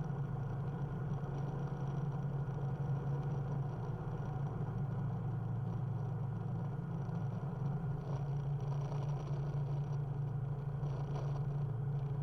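Rotax engine and propeller of a Just Aircraft SuperSTOL droning steadily, heard from inside the cockpit.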